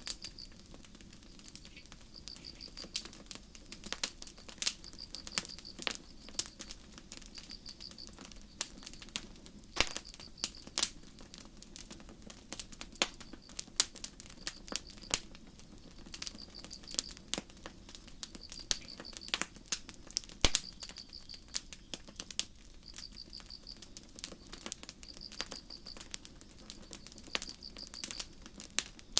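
Campfire burning, its wood crackling and popping in irregular sharp snaps over a low steady rush. Crickets chirp throughout, a short high trill every couple of seconds.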